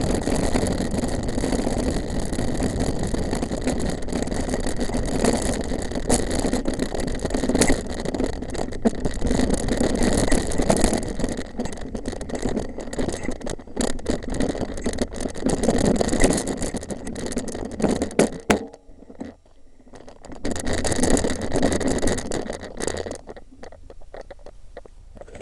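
Mountain bike rolling fast down a rough track, with wind rushing over the camera microphone, tyre rumble, and the bike rattling and clicking over bumps. The noise drops off suddenly about two-thirds of the way in, returns briefly, then fades near the end as the bike slows.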